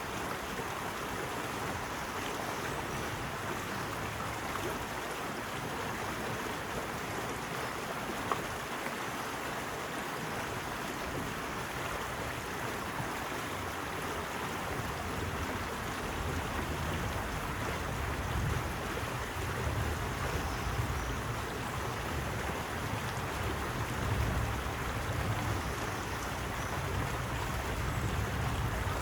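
Steady rushing water, with a low rumble that swells in about halfway through.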